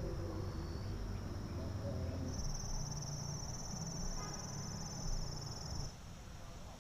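An insect, cricket-like, trilling high and fast for about three and a half seconds before stopping abruptly, over a steady low rumble.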